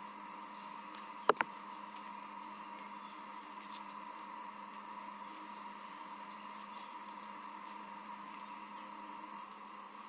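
Steady drone of jungle insects, with two sharp clicks in quick succession about a second in.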